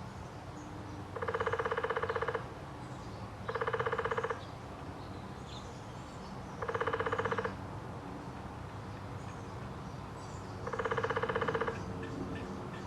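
Downy woodpecker drumming: four short rolls of rapid, evenly spaced beak strikes, each about a second long, with pauses of one to three seconds between them.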